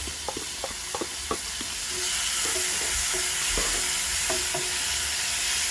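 Onions and turmeric frying in hot oil, sizzling steadily while a spoon stirs them, with several sharp taps against the pan in the first second and a half. The sizzle grows louder about two seconds in.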